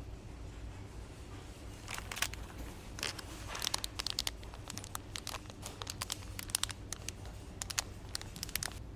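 Irregular crinkling and crackling in quick clusters from about two seconds in until near the end, like material such as plastic or paper being crumpled or handled, over a low steady hum.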